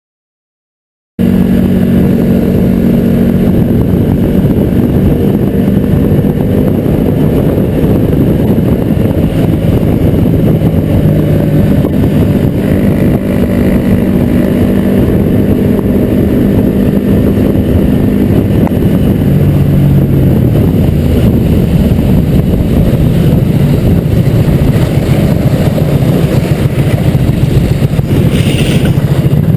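Motor vehicle engine and road noise picked up by a dashcam, loud and steady, starting abruptly about a second in.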